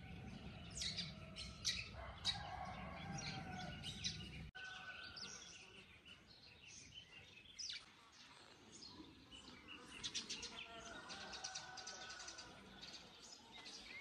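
Faint bird chirping: short, high chirps in scattered clusters, busiest about ten to twelve seconds in.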